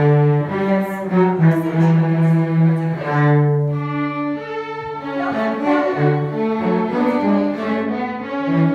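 Instrumental music played by bowed strings, with several held notes sounding together in a low, cello-like register. One long low note is held through the middle.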